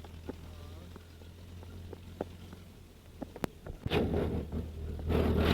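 GAZ-69A's four-cylinder engine running in a steady low drone, heard from inside the vehicle, with small clicks and knocks from the body. From about four seconds in, loud rough rattling and rumbling noise comes in and grows louder near the end.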